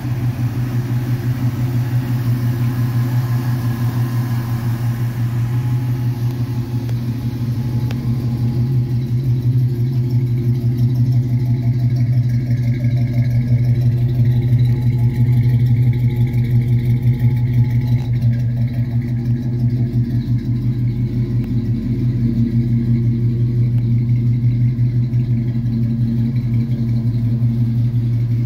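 The 1976 Oldsmobile Cutlass Supreme's engine idling steadily, a low, even engine note heard at the car's exhaust.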